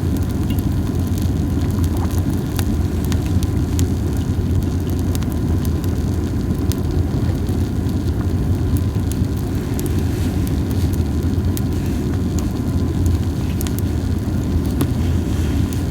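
Campfire of dried hinoki cypress cones burning: a steady low rumble of flames with small, scattered crackles and pops, only a little crackling.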